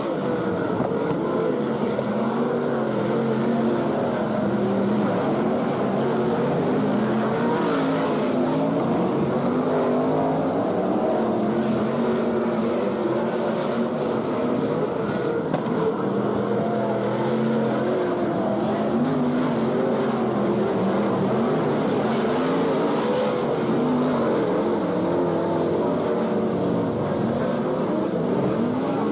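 Sprint cars' V8 engines racing on the track, running continuously with the pitch rising and falling again and again as the cars come off and back on the throttle.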